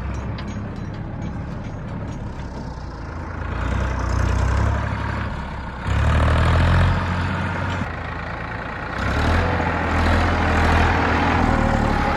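Tractor engine running, getting louder in steps: a rise a little past a quarter of the way in, a sudden jump about halfway, and another rise about three-quarters of the way through.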